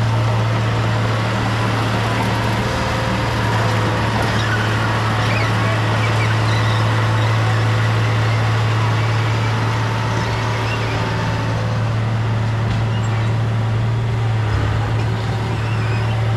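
Diesel engine of heavy earthmoving equipment running steadily, a constant low drone that holds at one pitch.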